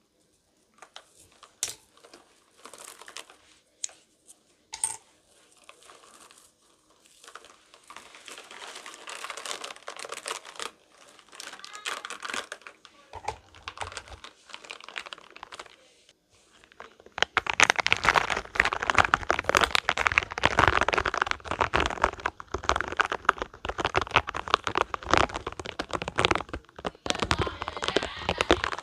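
Spiky rubber balls being squeezed and rubbed in the hands: a few scattered taps, then dense crackly rubbing that turns much louder about halfway through.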